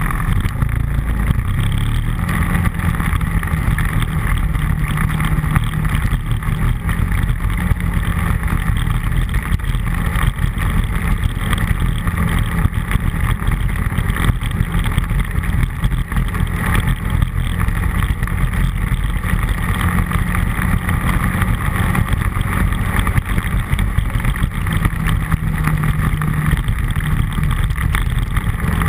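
An ATV's engine running steadily under way on a trail, with rushing noise across the microphone.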